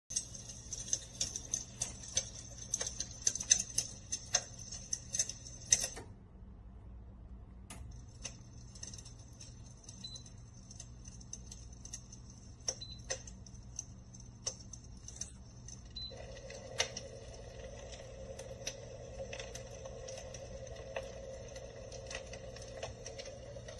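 PuraFlame Klaus electric fireplace insert playing its crackling-fire sound effect through its speaker: dense, irregular crackles and pops over a steady hiss and a low hum. The crackling thins to sparse pops for a couple of seconds about a quarter of the way in. A steady tone joins about two-thirds of the way through.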